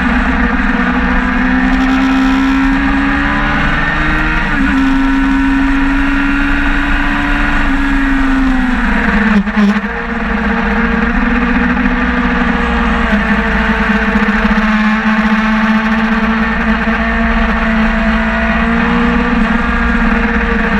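Sportbike engine at speed on a racetrack, heard from an onboard camera with wind noise. The engine note climbs over the first several seconds, drops sharply with a brief dip in loudness about halfway through as the throttle closes, then pulls steadily again.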